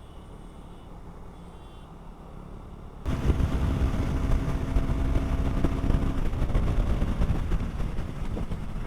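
Motorcycle riding on the road: engine and wind noise on the rider's microphone. About three seconds in, the sound jumps abruptly from a muffled, quieter rumble to a much louder rush of wind and engine.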